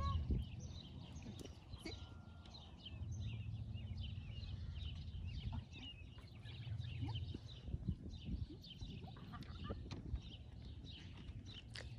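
Small birds chirping and singing in many short notes, over a low rumble that comes and goes.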